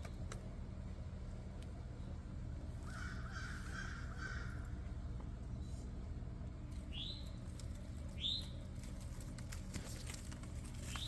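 Backyard birds calling: a harsh, cawing call lasting over a second about three seconds in, then two short whistled notes, each sliding down in pitch, about seven and eight seconds in. A steady low hum runs underneath.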